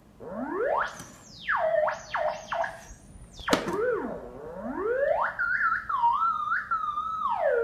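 Theremin played by a cat's paws moving near its pitch antenna: one electronic tone sliding and swooping up and down in pitch, wavering near the end. About three and a half seconds in there is a sharp knock and the pitch drops suddenly.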